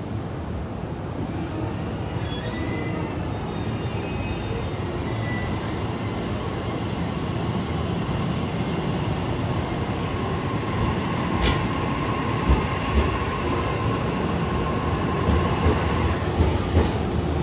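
JR East E655 series 'Nagomi' electric train pulling out of a station platform, its rolling noise gradually growing louder as the cars pass and gather speed. A few short high wheel squeals sound in the first seconds, and in the second half the wheels thump over rail joints more and more often.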